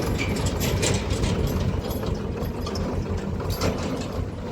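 Tractor engine running steadily, a low rumble with irregular clicking and rattling over it.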